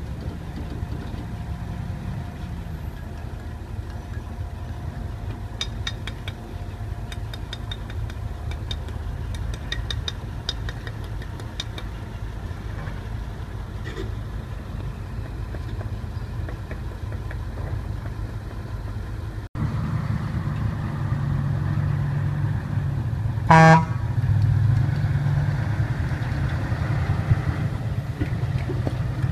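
Heavy vehicle engine running steadily with a low rumble, with scattered light clicks in the first half. About two-thirds through, a short horn blast is the loudest sound.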